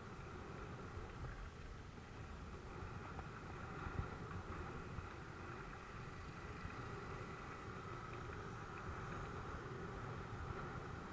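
Steady wind rush and rolling rumble from a mountain bike being ridden over dirt, with one sharp knock about four seconds in.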